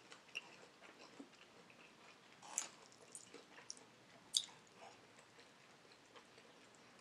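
Faint eating sounds of a person chewing fried chicken and picking meat off the bone: scattered soft clicks and smacks, with two sharper clicks about two and a half and four and a half seconds in.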